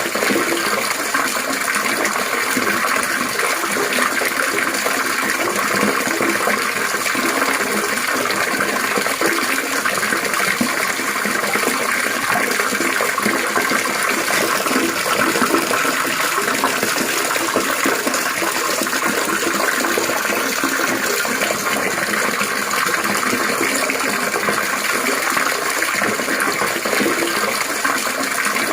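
Water trickling and splashing steadily, a continuous babbling rush with no change in the flow.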